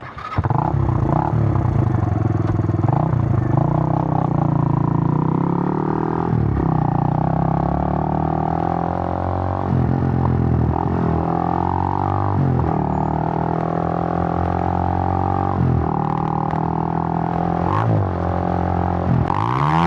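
Suzuki GN125's single-cylinder four-stroke engine running under way, the revs climbing and then dropping briefly at each of several gear changes, roughly every three seconds.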